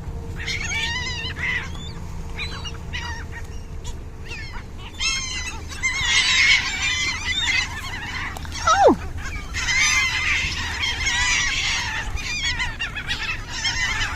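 A flock of birds crowding in for thrown bread, many short calls overlapping into a clamour that swells twice. About nine seconds in, one call slides steeply down in pitch.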